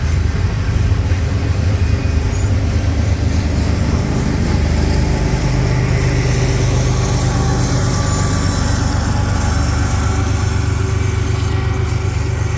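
Union Pacific freight train rolling slowly past with a steady, loud low rumble.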